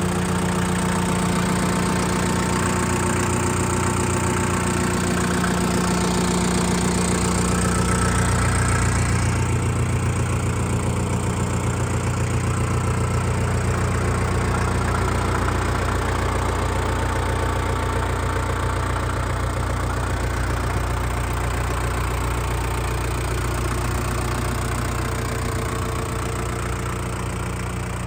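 Shibaura SD3234 compact tractor's four-cylinder diesel engine running steadily, its tone changing about nine seconds in.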